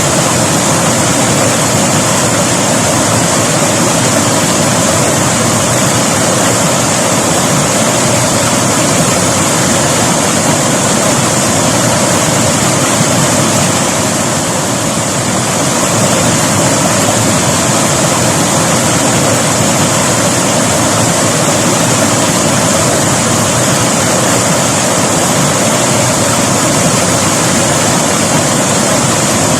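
River water rushing in a loud, steady, unbroken wash, easing slightly for a moment about halfway through.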